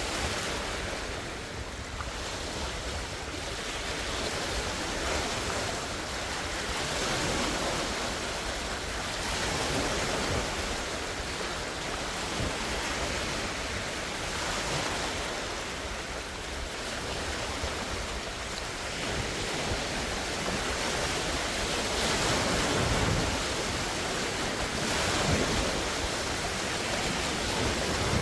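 Large wind-driven lake waves washing and breaking on the shore, a steady rushing wash that swells and eases every few seconds.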